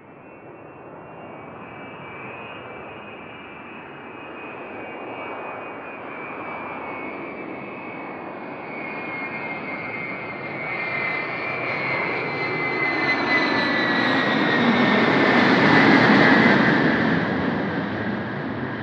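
Jet airliner's engines passing close by: a rushing jet noise with a high fan whine builds steadily and is loudest about three seconds before the end. The whine drops in pitch as the aircraft goes past, and the sound then begins to fade.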